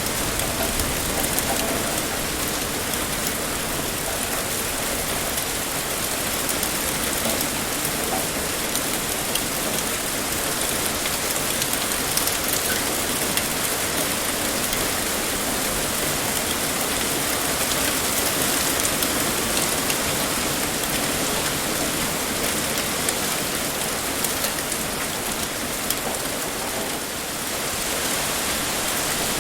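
Heavy rain pouring steadily, a dense even hiss of drops with a brief slight dip in level near the end.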